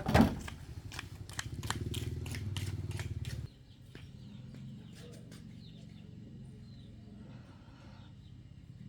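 A vehicle engine running with a loud knock and a string of sharp clicks, then cutting out abruptly about three and a half seconds in: the engine dies as the vehicle breaks down.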